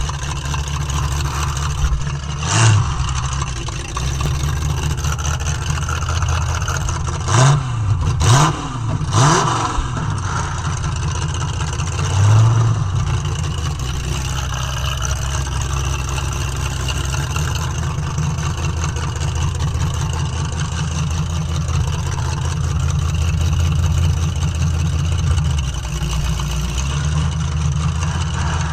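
Demolition derby car's engine running loud from onboard, revved in three quick blips about seven to nine seconds in, with another sharp loud burst a little earlier.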